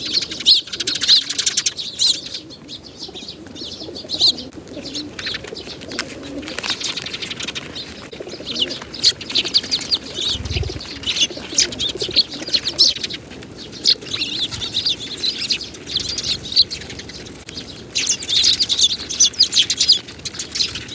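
Eurasian tree sparrows chirping repeatedly in quick clusters, with wing flutters.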